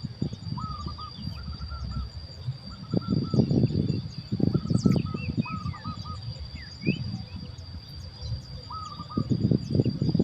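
Birds calling in short groups of quick repeated notes, with a few higher chirps, over a steady high-pitched whine. Low rustling and knocking rises and falls beneath them.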